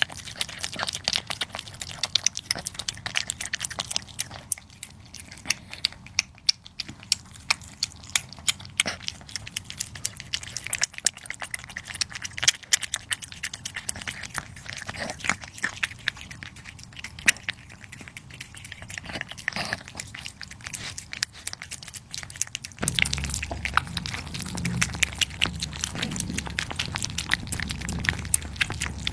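A cat chewing and eating its food: a run of quick, moist clicks and crunches. About three-quarters of the way through the sound changes abruptly to a fuller, lower-pitched eating sound.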